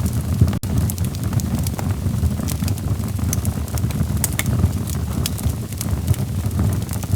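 Wood fire burning in a fireplace: a steady low rumble of flames with scattered sharp crackles and pops from the logs. The sound cuts out for an instant about half a second in.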